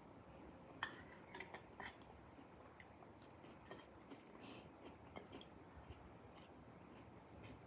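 Faint chewing of a mouthful of food, with a few soft clicks and taps scattered through it.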